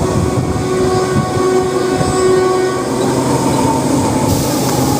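Passenger train running on the rails with a steady rumble, and a train horn sounding over it for about the first three seconds.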